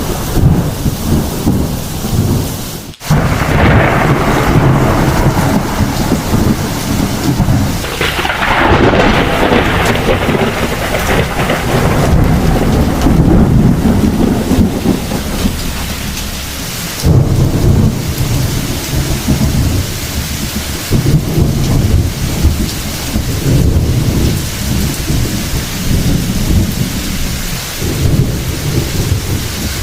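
Heavy thunderstorm: steady rain with near-continuous low thunder rumbling, and a louder crack-and-roll of thunder about eight seconds in.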